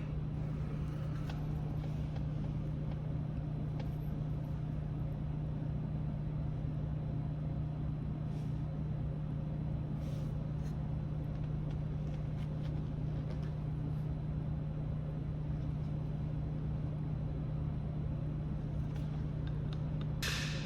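A steady low machine hum runs throughout. A few faint short clicks or scrapes sound over it, with a louder scrape near the end.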